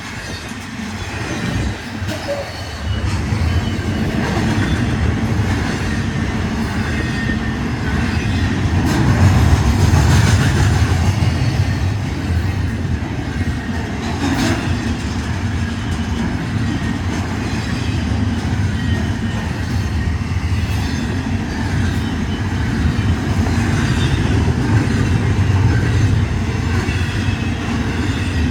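Union Pacific train rolling past on the rails: a steady rumble that grows louder about three seconds in and stays loud.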